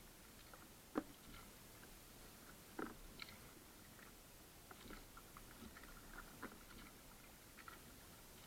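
Faint drips and small splashes of water around a kayak, with a sharp knock about a second in and another just before three seconds.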